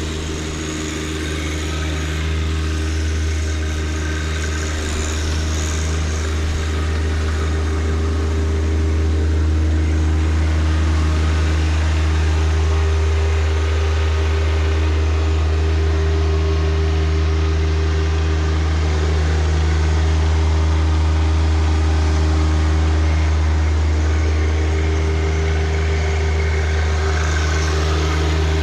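John Deere 1025R compact tractor's three-cylinder diesel engine running steadily, a little louder after the first several seconds.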